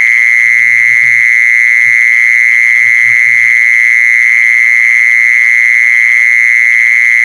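An insect calling with one continuous, loud, high-pitched trill at a steady pitch, finely pulsed, with faint low sounds coming and going underneath.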